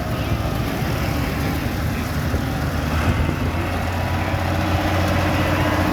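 Tractor engines running with a steady low drone.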